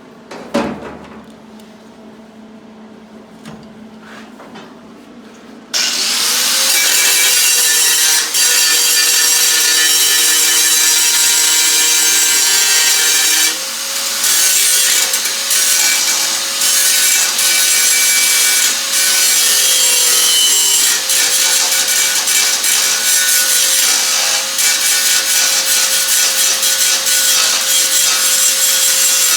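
A knock, then about six seconds in an angle grinder spins up and runs steadily, its disc grinding metal with a loud, hissing rasp over the motor's steady whine.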